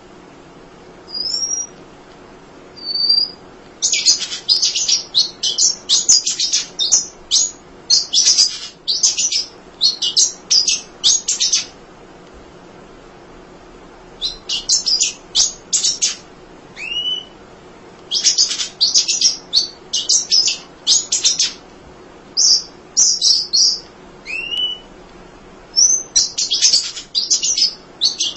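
Emprit (munia) chirping: a few single thin whistled notes, then runs of rapid, high, short chirps lasting a few seconds each, with pauses between runs.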